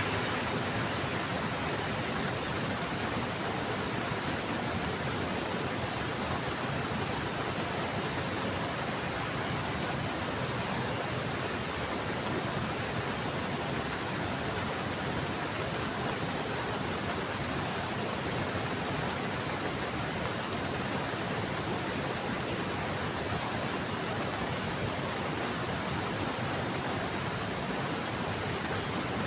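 Heavy rain falling steadily, an even rushing hiss with no thunder or single drops standing out.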